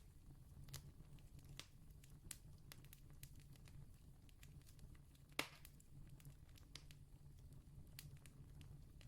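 Campfire crackling faintly, with scattered small pops and one louder pop about five seconds in, over a low steady hum.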